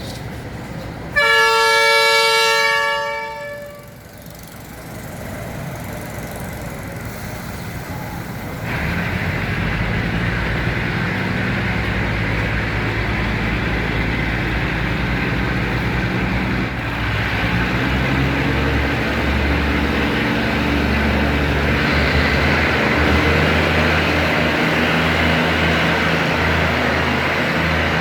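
A diesel train's horn sounds one long blast about a second in. From about nine seconds in, the train's engine runs loud and steady, with the rumble of the train, until the end.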